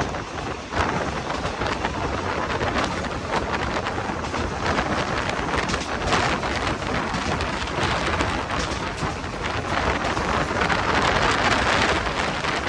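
Passenger train running at speed: a steady rush of noise with rapid rattling and clattering from the wheels and carriage.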